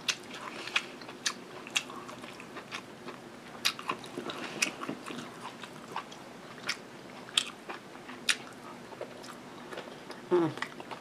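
Close-miked chewing and biting of food, with sharp wet mouth clicks and lip smacks every second or so, and a brief hum near the end.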